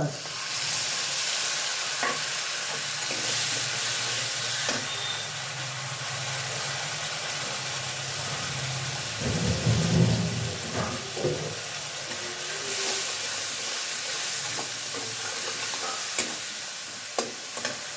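Ground spices and tomato sauce sizzling in hot oil in a kadai, a steady frying hiss broken by a few sharp knocks and scrapes as the masala is stirred.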